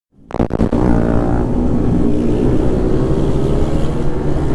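Sport motorcycle engine running under way, its note rising slightly, with wind rushing over the helmet camera. The sound cuts in after a brief dropout at the start.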